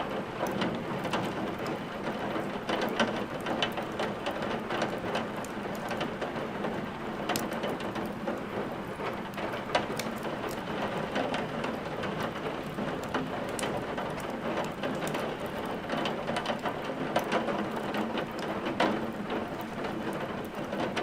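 Steady rain hissing, mixed with a wood fire crackling: frequent sharp irregular pops over the even rush of the rain.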